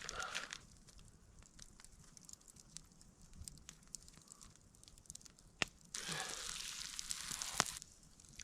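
Campfire crackling with scattered sharp pops, and a louder hiss for about two seconds near the end.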